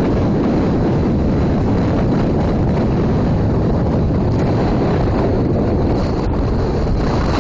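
Strong wind buffeting the microphone: a steady, loud rumbling rush of wind noise.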